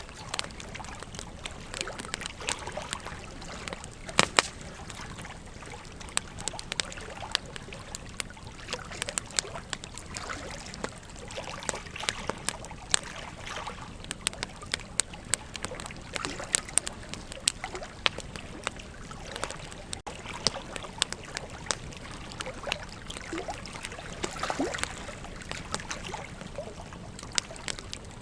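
Wood campfire crackling, with frequent irregular sharp pops, the loudest about four seconds in, over the steady rush of a river.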